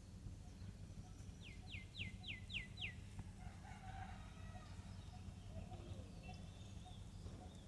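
Wild birds chirping. About a second and a half in, one bird gives a quick run of six falling notes, about four a second, and other calls follow. A steady low rumble lies underneath.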